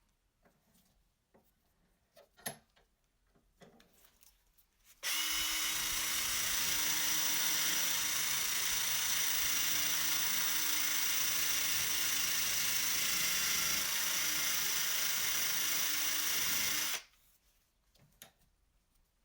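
Light handling clicks, then a power tool starts abruptly about five seconds in, runs steadily for about twelve seconds as a loud hiss over a low hum, and stops suddenly.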